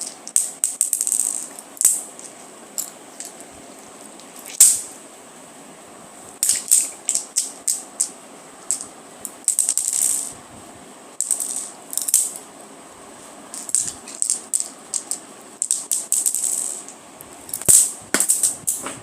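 Something small and dry being shaken, making irregular bursts of quick rattling clicks with short pauses between them.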